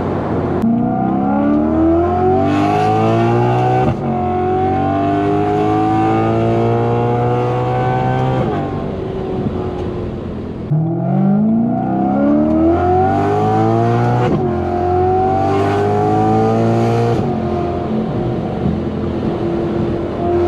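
BMW E90 M3's 4.0-litre V8 through a titanium valved aftermarket exhaust, pulling hard through the gears twice. Each pull has revs climbing with a quick break for an upshift. After each pull it eases off and settles to a steadier note near the end.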